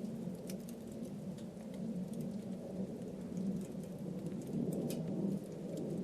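Campfire burning, a steady low rush of flame with sharp crackles and pops from the wood scattered irregularly through it.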